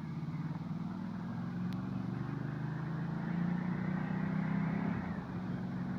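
Ducati Multistrada 1200's V-twin engine running as the bike is ridden, the pitch rising a little in the middle and easing off again near the end.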